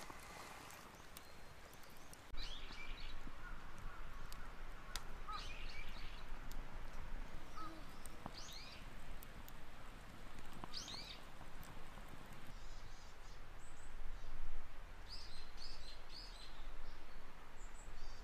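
Wild birds calling in woodland: short bursts of high chirps every two to three seconds. Light scattered clicks, likely from the small wood fire crackling, sit beneath them.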